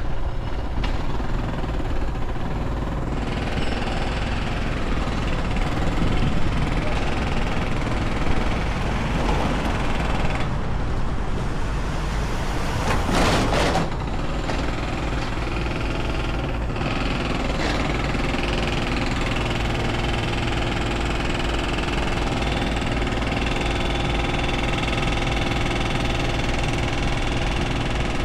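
Motorcycle engine running steadily with a low rumble, with a brief rush of noise about thirteen seconds in.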